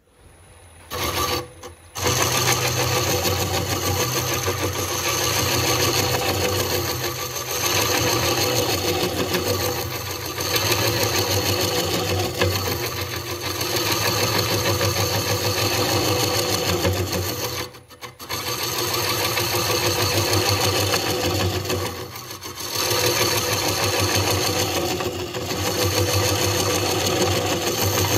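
Wood lathe running with a low motor hum and a steady hiss of a tool or abrasive working a spinning burl. The sound breaks off briefly a few times.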